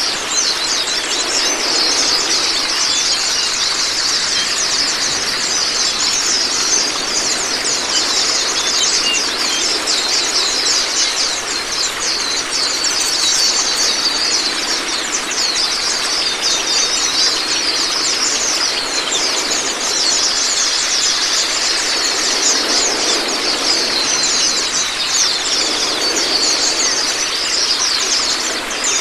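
Running water with a dense, fast twittering of small songbirds over it: rapid high chirps, with short curving trills here and there.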